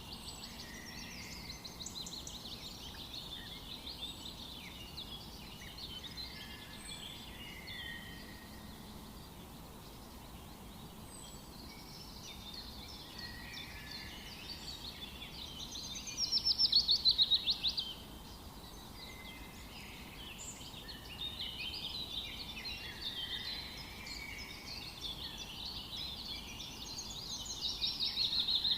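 Several birds singing and calling at once over a faint steady background hiss. A louder, rapid trill of repeated falling notes comes about sixteen seconds in and again near the end.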